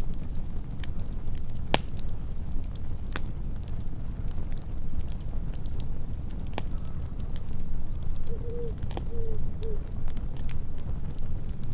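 Campfire crackling, with scattered sharp pops over a low steady rumble of burning wood. A cricket chirps steadily about twice a second, and three short low calls sound about eight seconds in.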